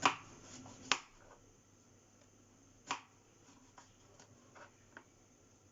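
A few scattered sharp clicks and light knocks: one at the start, one about a second in and one about three seconds in, with fainter ticks between.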